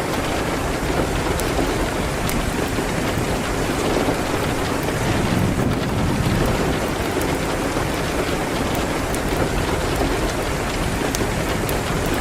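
Steady rain hitting a window: a dense, even hiss with scattered sharp ticks throughout.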